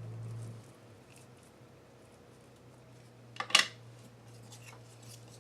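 A sharp double clack of small craft supplies being handled, about three and a half seconds in, followed by a few faint scratchy ticks, over a low steady hum.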